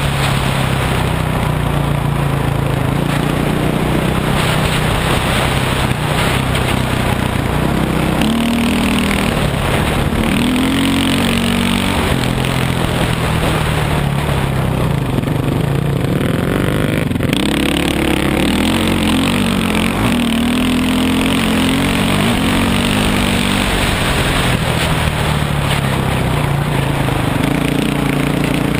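Dirt bike engine riding under way, its pitch rising and falling again and again as the throttle opens and closes. A constant rushing noise runs beneath it.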